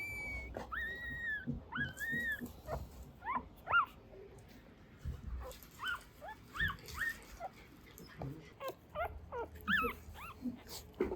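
Baby Mame-Shiba puppies whimpering: a few longer high-pitched whines in the first couple of seconds, then many short squeaks that rise and fall in pitch, coming in little clusters.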